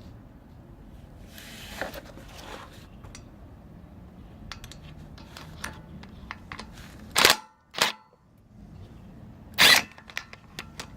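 Hand tools, a socket wrench and metal parts, working on a motorcycle engine's oil filter cover bolts. There are scattered light clicks, then three loud, sharp metallic clanks about seven to ten seconds in, the first ringing briefly.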